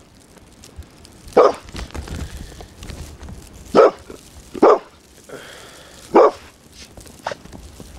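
A dog barking: four loud, short barks at uneven gaps of one to two and a half seconds, then a weaker one near the end.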